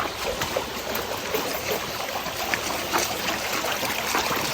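River water running and trickling steadily, with scattered small splashes.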